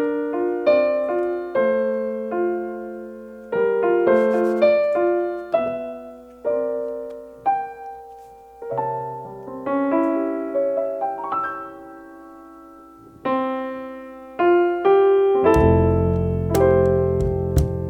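Jazz keyboard playing an unaccompanied intro of chords and melody notes. Near the end, bass and drums come in and the music gets louder.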